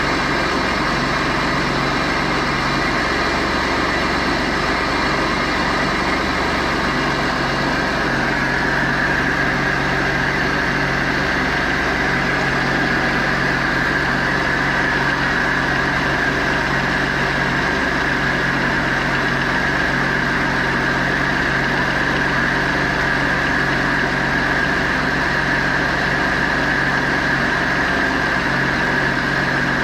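Mitsubishi 6G72 12-valve 3.0 L V6 idling steadily on a cold start, with a higher whine coming up about eight seconds in.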